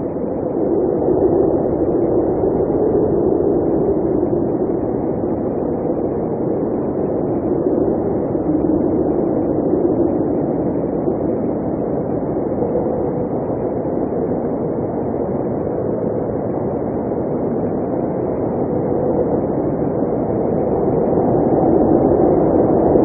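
Blizzard wind blowing in a steady low rush that swells and eases slowly, growing a little louder near the end.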